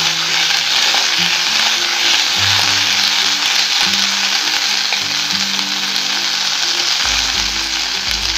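Fresh curry leaves sizzling in hot oil in a steel kadai as a steel spoon stirs them: a steady frying hiss.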